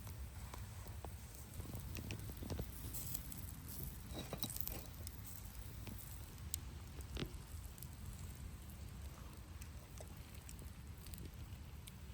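Campfire crackling, with scattered small pops and clicks over a low steady rumble.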